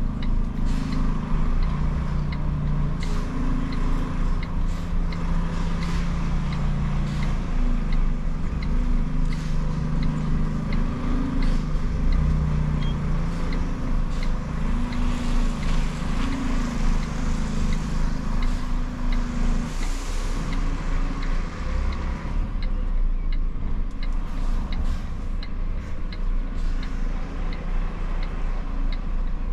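Iveco truck's diesel engine running under way, its note shifting up and down, with a regular ticking about one and a half times a second, like a turn-signal indicator. A brief hiss about twenty seconds in.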